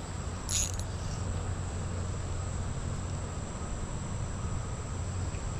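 Steady high-pitched insect trill over a low steady rumble, with a brief rustle about half a second in.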